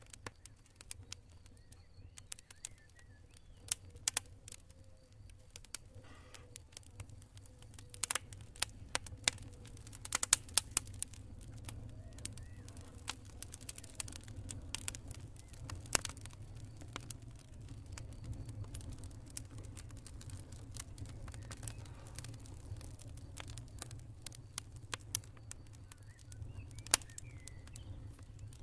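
Campfire crackling, with irregular sharp pops and snaps from the burning wood over a low, steady rumble of flames.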